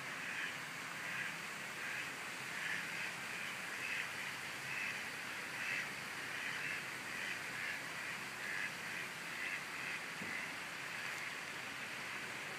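A rapid, irregular run of short animal calls over a steady hiss, dying away about ten seconds in.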